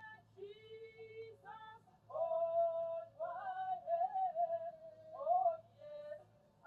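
A voice singing a slow melody, with long held notes that glide and waver.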